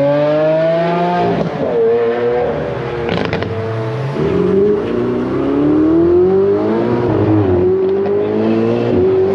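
Sports car engine accelerating hard, its pitch climbing and then dropping at about three upshifts.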